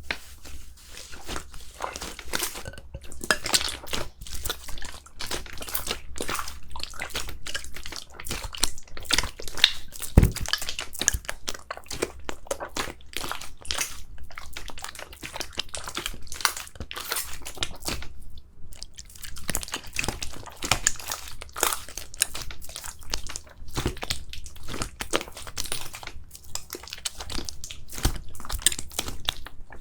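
Crunchy slime squeezed and pressed by hand, giving a dense run of crunching, crackling clicks, with one louder thump about ten seconds in.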